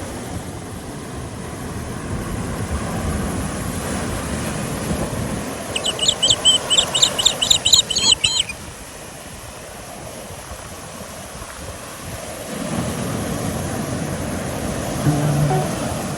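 Surf washing onto the beach with wind on the microphone, swelling twice. About six seconds in, a bird gives a quick run of about ten high chirps lasting a couple of seconds.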